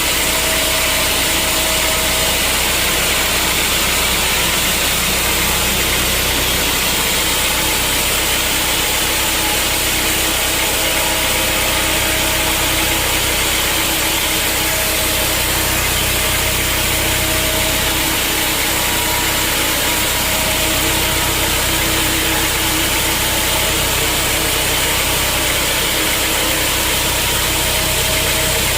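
Sawmill machinery running steadily, an even engine-like drone with a constant hiss and no breaks in level.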